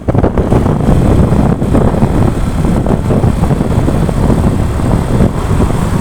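Loud, steady rumble of a moving vehicle: road and engine noise mixed with wind on the microphone.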